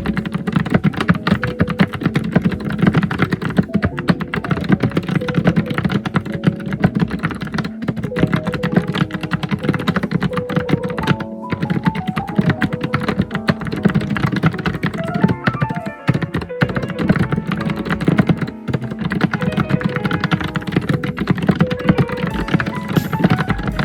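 Fast, continuous typing on a computer keyboard, a dense run of key clicks with no pauses, over music with a melody.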